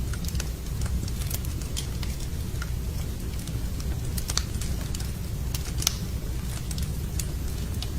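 Wood fire burning in a fireplace: a steady low rumble of flames with irregular sharp crackles and pops from the logs, the loudest pop just before the six-second mark.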